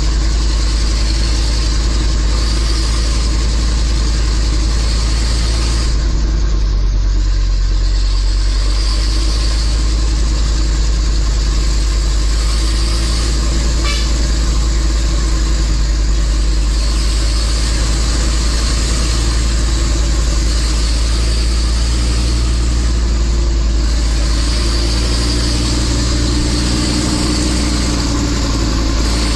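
Nissan Diesel Big Thumb's RH10 V10 diesel engine running hard and steady under a 25-tonne load on a hill climb, a loud, deep drone. Its note shifts slightly near the end.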